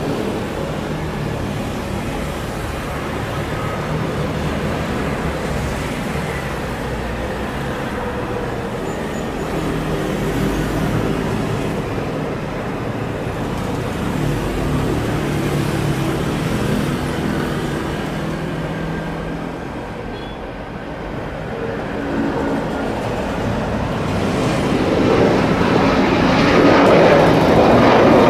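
Jet engines of an Airbus A330-300 with Rolls-Royce Trent 700 engines taking off: a steady rumble and hiss that swells louder near the end as the jet draws closer under takeoff power.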